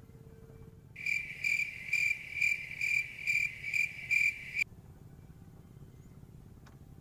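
A high, pulsing chirp from an insect, about two pulses a second, that starts about a second in and cuts off suddenly some three and a half seconds later.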